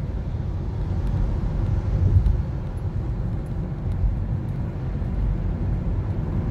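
Toyota Corolla driving, heard from inside the cabin: steady low road and engine rumble.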